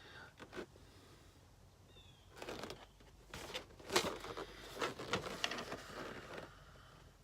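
A cardboard and plastic toy package being handled and turned over: rustling and crinkling with a few sharp clicks through the middle, after a faint short squeak.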